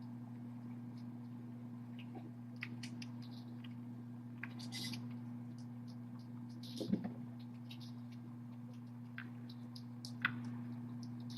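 Kittens moving about in their pen: scattered light clicks and scratches, with a soft thump about seven seconds in and a sharper tap near ten seconds, over a steady low electrical hum.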